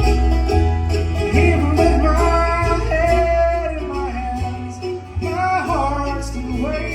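Country-bluegrass band music with acoustic guitar, banjo and a walking bass line under a sliding lead melody.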